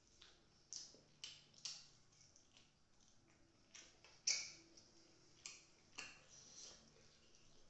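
Close-miked eating sounds: wet chewing and lip smacks from a mouthful of biryani, heard as sharp, irregular clicks, the loudest about four seconds in.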